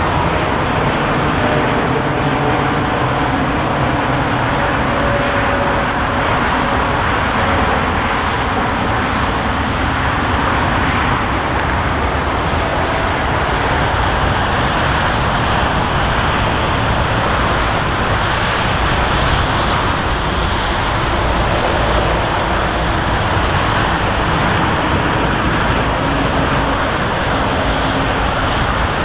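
Airliner jet engine noise: a steady, loud rush with a faint whine in the first few seconds.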